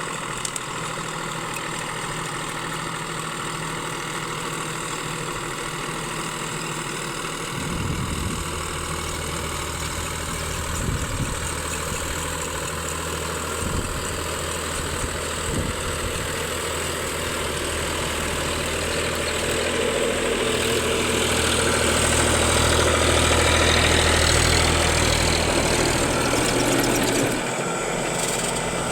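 Sonalika 745 DI tractor's diesel engine running steadily. A deep low hum comes in about a quarter of the way through, the engine grows louder over the second half, and it dips briefly near the end.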